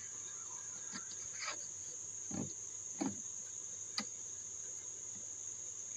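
Steady high-pitched chirring of insects, such as crickets, with a few faint taps or knocks scattered through.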